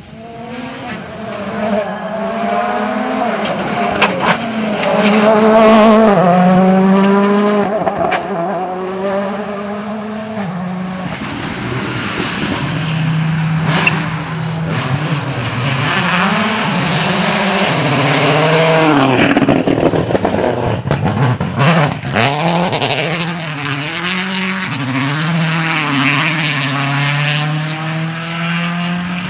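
Rally car engines driven hard on a stage, the revs climbing and dropping over and over with gear changes and lifts off the throttle.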